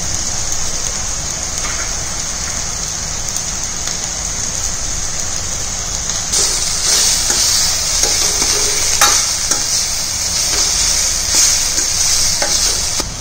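Mixed vegetables with mashed potato sizzling in oil in a stainless steel pan, stirred with a metal spoon. The sizzle grows louder about halfway through, and the spoon clicks and scrapes against the pan several times near the end.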